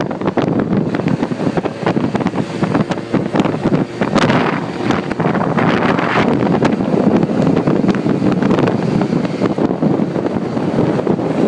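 Wind buffeting the microphone on a moving quad bike, a loud, uneven rush with gusty thumps, with the quad bike's engine running underneath.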